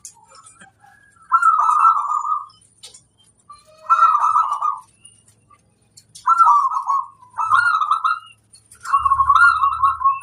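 Zebra dove (perkutut) cooing: about five rolling, warbling coo phrases a second or two apart, the last ones coming closer together. A low hum joins near the end.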